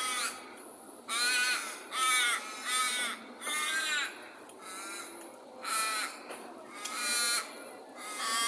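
Bird squawking: a run of about eight harsh, drawn-out calls, roughly one a second, with a short gap in the middle.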